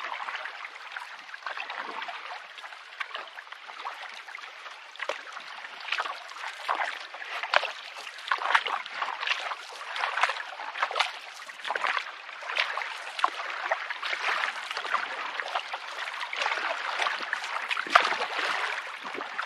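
Water splashing and lapping around a canoe as it is paddled into the wind, with many short, irregular splashes.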